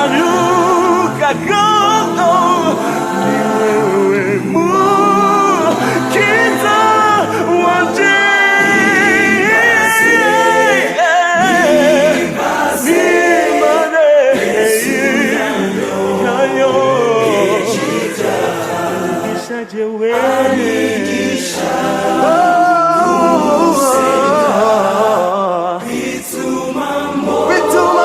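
Background music: a choir singing a worship song in Kinyarwanda.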